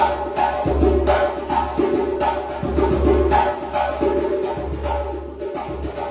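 Djembe drumming: a fast, steady run of sharp slaps and tones over a deep bass drum that beats about twice a second.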